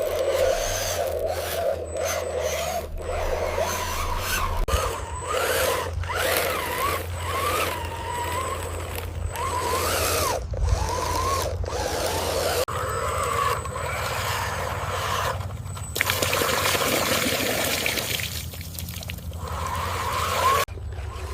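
Small electric motors and plastic gearboxes of radio-controlled construction vehicles whining, rising and falling in pitch as they speed up and slow down, with scraping and a steady low hum. The sound breaks off abruptly many times, and a harsher noisy stretch comes about three quarters of the way through.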